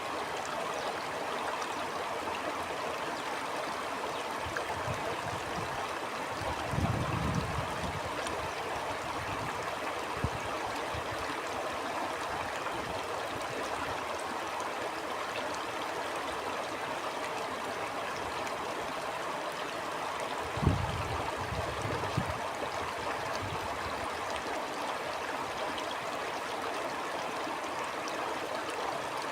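Stream flowing steadily with an even rush of water. Twice, briefly, a low rumble rises under it, about seven seconds in and again about twenty-one seconds in.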